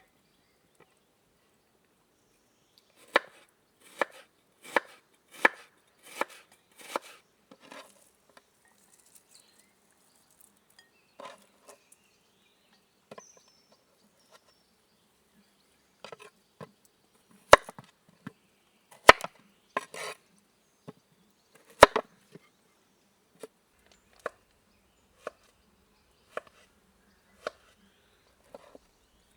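Chopping strokes on wood: a quick, even run of about six blows a few seconds in, then scattered sharper knocks, and a slower series of about one a second near the end.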